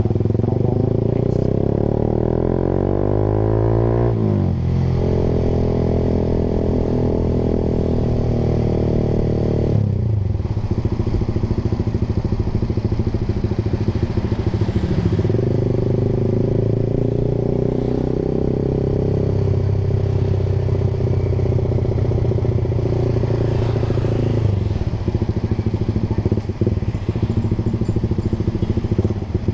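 Honda Sonic 150R's single-cylinder four-stroke engine through a Proliner TR1R short aftermarket exhaust, under way. It revs up through a gear over the first few seconds, shifts up and holds steady, then the throttle closes about ten seconds in. It pulls steadily again and eases off toward the end.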